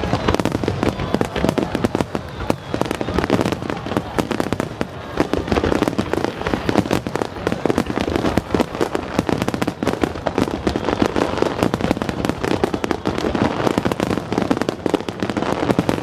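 Aerial fireworks display firing a dense, continuous barrage: rapid overlapping shell bursts and crackling with no break.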